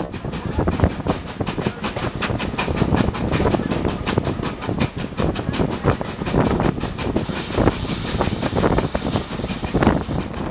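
Train running along the line, with a rapid, even beat about five times a second. For a couple of seconds near the end a high hiss rises over it.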